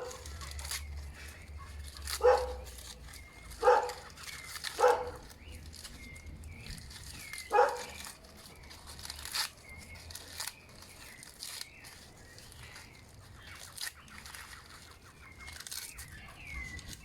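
Four short, loud calls from a domestic animal, a dog or a farmyard fowl, spread from about two to eight seconds in. Between and after them come light crackles of dry leaves being handled and piled up as tinder.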